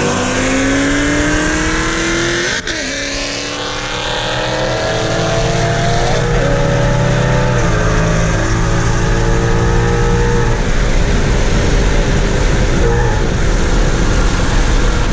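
Naturally aspirated car's engine under hard acceleration through its 10R80 ten-speed automatic, heard from inside the cabin. The pitch climbs and drops at upshifts about two and a half seconds in and again around six and seven and a half seconds. After about ten seconds the engine tone fades under growing road and wind noise.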